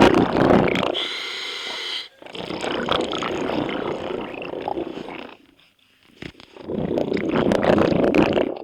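Scuba diver breathing through a regulator underwater: three long spells of rumbling exhaled bubbles with short pauses between them, and a hissing inhale through the regulator about a second in.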